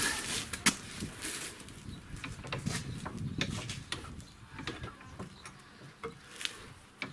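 Scattered metallic clicks and knocks, one sharp one about half a second in, as a BMW X5 E70 front lower control arm is twisted and worked into place against the suspension.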